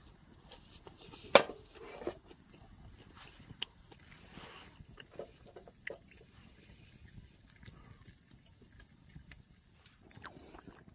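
A person eating close to the microphone: quiet chewing and biting with scattered small clicks, and one sharper knock about a second and a half in.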